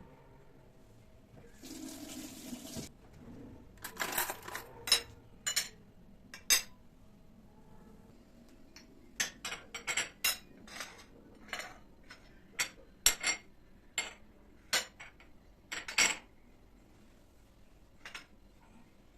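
Water runs briefly from a kitchen tap, then dishes clink and clatter against each other in a string of sharp, irregular knocks, as when they are washed or put away.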